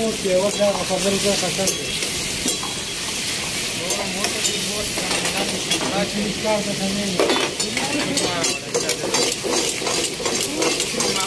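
Chicken karahi with tomatoes sizzling and frying in a metal karahi over a gas flame. From about seven seconds in, metal ladles clack and scrape against the pan as it is stirred.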